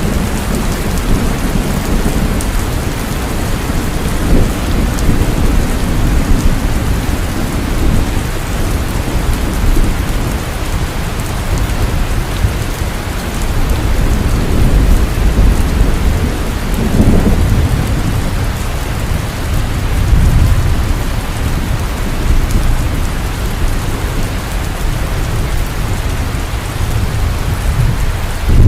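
Heavy rain falling steadily, with low rolling thunder swelling and fading beneath it, strongest about halfway through and again near the end.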